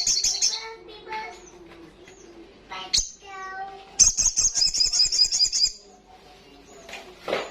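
A sunbird sings a fast, high, chattering trill that fades out just under a second in and starts again about four seconds in for nearly two seconds, with softer calls between. There is a sharp click about three seconds in and a short loud crack near the end.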